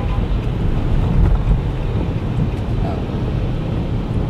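Steady low rumble of vehicle cabin noise, with engine, road and wind mixed together.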